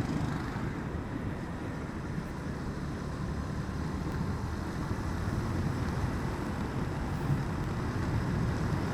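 Steady wind noise on the microphone with the motorcycle's engine and road noise underneath while riding.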